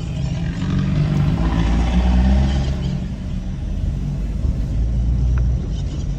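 A car driving along a town street: steady low engine and road rumble.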